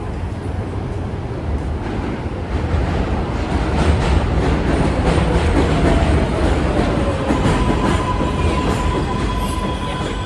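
Elevated subway train passing, a heavy rumble of wheels on the rails that builds to a peak midway and then eases. Wheels squeal from about seven seconds in.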